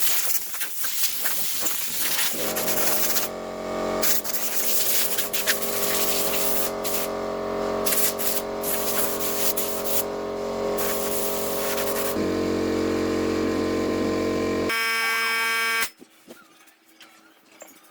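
Electric woodworking power tool motor running with a steady hum. The hum changes abruptly twice and then cuts off suddenly near the end.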